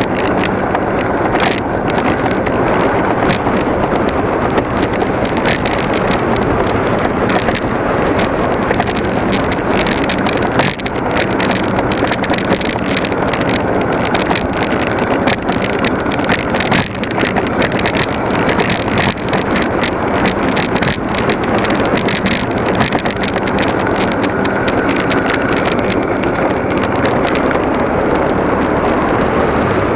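Motorcycle running on the road, its engine a steady low drone under loud wind buffeting the microphone.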